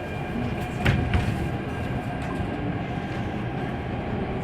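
Interior running noise of an MTR A-Train, the Adtranz-CAF electric multiple unit, travelling at speed, a steady low rumble with faint steady tones above it and a brief clunk about a second in.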